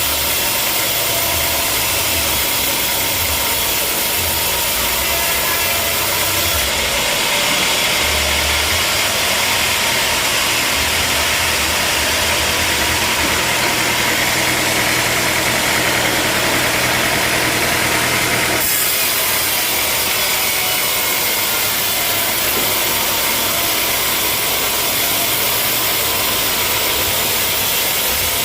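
A sawmill running steadily with a constant engine-like drone. About a quarter of the way in, a brighter hiss joins it for about twelve seconds and then cuts off suddenly.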